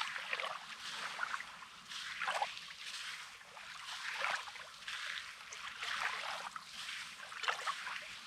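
Small sea waves lapping and splashing against a rocky, sandy shoreline, swelling and falling back every second or two.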